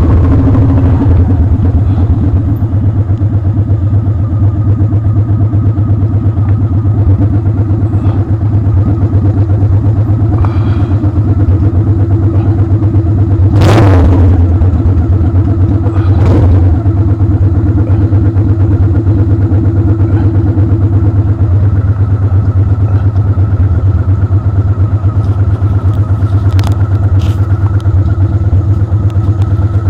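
Motorcycle engine running at a steady, unchanging speed. A brief loud sound that falls in pitch cuts in about fourteen seconds in, with a few lighter clicks later.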